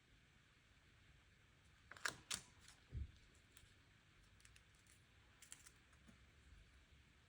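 Planner supplies handled on a desk in a quiet room: a few sharp clicks about two seconds in, a soft thump a moment later, then faint light ticks a little after five seconds.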